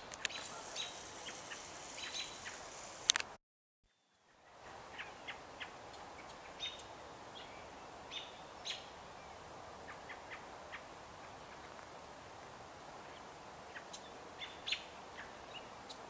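Scattered short, high bird chirps and call notes over a steady outdoor hiss. A sharp click comes about three seconds in, followed by a brief drop to silence, and then more chirps.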